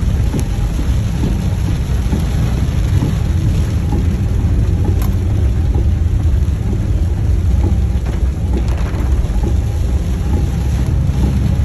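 Heavy rain on a moving car, heard from inside the cabin, over a steady low rumble of the car and its tyres on the wet road.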